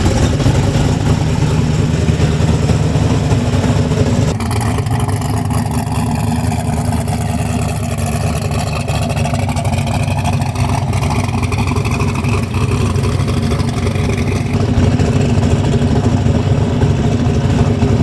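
Turbocharged truck engine running steadily, with no sharp revving; the tone changes about four seconds in and again near the end.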